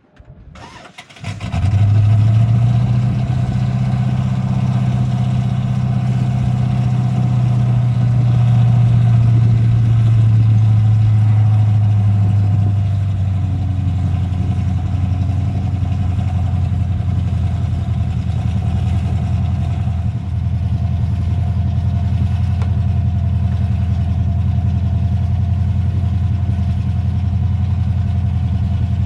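A vehicle engine comes in suddenly about a second and a half in and then runs steadily at an even pitch, dropping slightly in pitch about twelve seconds in.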